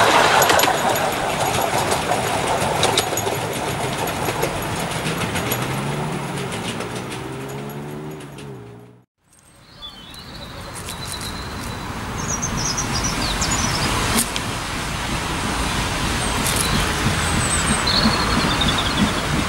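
A full-size train with red Royal Mail carriages rumbling past on the adjacent line, fading out over about nine seconds. Then birds chirping while a miniature-gauge steam locomotive draws nearer with its passenger train, growing louder near the end.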